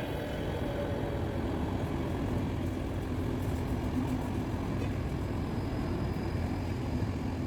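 A train at the station running with a steady low rumble and a faint hum.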